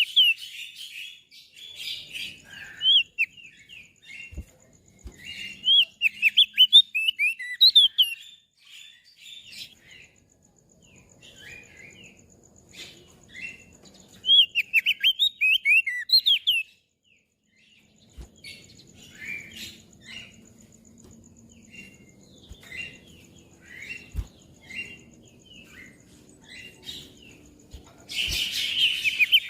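Crested white-eye (opior jambul) singing: bursts of rapid, high, sweeping chirps broken by pauses and scattered single notes, ending in a dense, loud burst of song.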